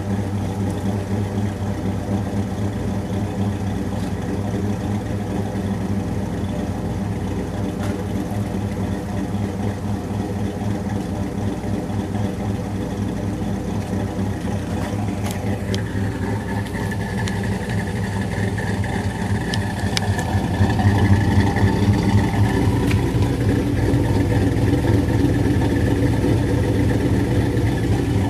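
Rebuilt 5.0 (302) Windsor V8 with a custom camshaft idling with a lope, heard through long-tube headers, 2.5-inch pipes and Flowmaster 40 series dual in/out mufflers with no crossover. It runs steadily and gets somewhat louder about two thirds of the way through.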